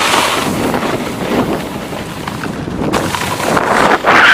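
Wind buffeting the microphone: a loud, rushing noise that dips briefly past the middle and rises again near the end.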